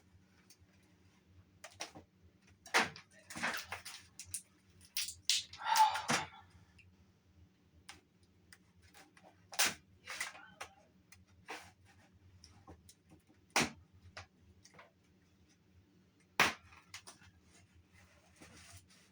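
Cardboard box and packing material being handled and opened: scattered sharp clicks and knocks with a few short bursts of rustling and tearing, the loudest about five to six seconds in.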